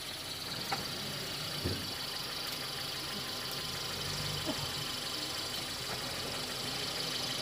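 Safari jeep engine idling steadily, with a steady high insect buzz and two faint knocks in the first two seconds.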